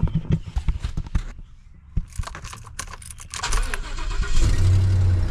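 Keys rattling and clicking at the ignition, then a 2015 Ford F-350's 6.2L V8 cranks about three and a half seconds in, catches and settles into a steady idle. This is its first start after the cylinder-2 fuel injector wiring was repaired.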